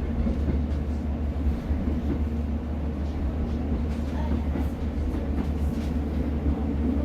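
Class 150 Sprinter diesel multiple unit under way, heard from on board: the steady drone of its underfloor diesel engine over a constant low rumble of wheels on the track.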